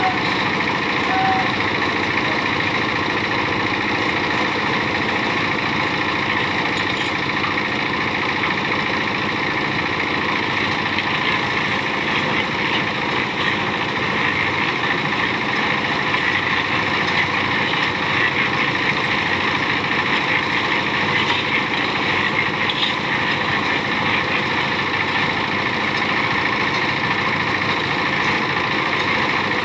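An engine running steadily at an even pitch, with a constant whine and machine noise and no pauses.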